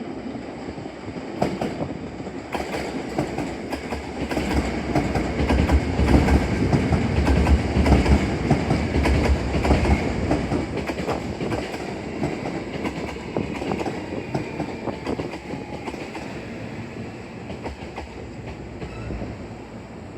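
Hankyu electric train rolling past slowly, its wheels clicking over rail joints and points. The rumble builds to its loudest around the middle, then fades as the train moves away.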